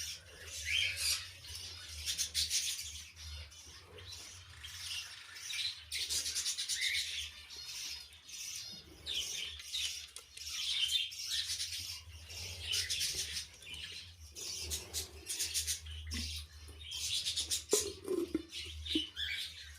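Lovebirds chattering in repeated bursts of high, buzzy chirps over a steady low hum.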